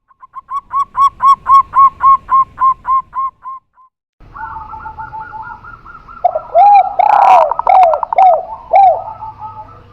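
Spotted dove and zebra dove cooing. A quick run of about a dozen evenly spaced coos fades out, then after a brief break overlapping calls come in, with a series of lower, arched coos.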